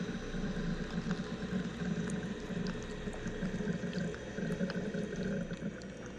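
Wire EDM machine running: a steady hum under a hiss like flowing water, with scattered faint ticks.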